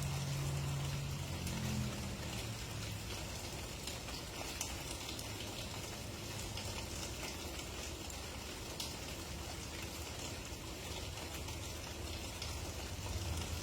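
Steady rain falling, with individual drops ticking close by. A low hum fades out in the first couple of seconds.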